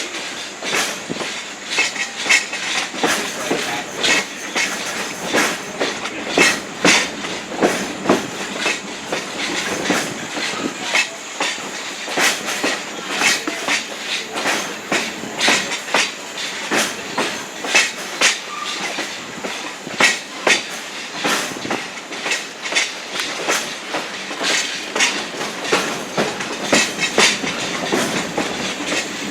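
A passenger railroad coach rolling along the track, heard from on board: steady rumble with frequent, irregular clicks and clacks of the wheels over rail joints.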